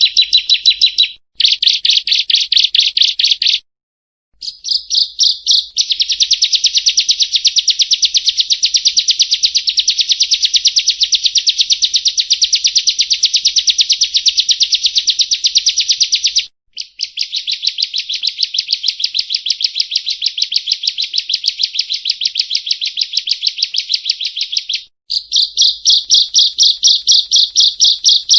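Prinia (perenjak) calling: long trains of fast, evenly repeated high chirps, broken by a few short pauses. It is a lure recording for drawing prinias.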